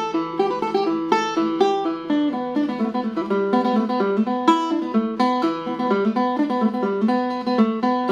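Isan phin (northeastern Thai plucked lute) playing a quick lam phloen melody: fast plucked notes, several a second, over a steady ringing drone.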